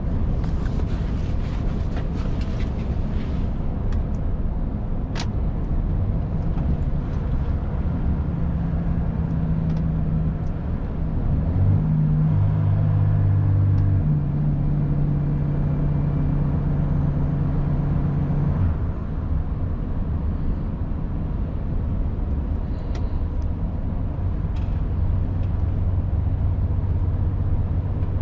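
Volvo FH 500 truck's 13-litre inline-six diesel running under way with road and tyre noise. Its note holds steady and louder from about twelve seconds in, then falls back after about eighteen seconds.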